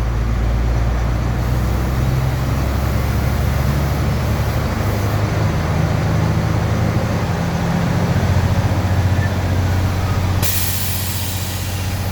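International DT466 diesel engine, heard from inside the cab, running raised a little above idle, then settling back down about eight seconds in; it runs smooth. Near the end, a loud burst of air hiss from the truck's air brake system.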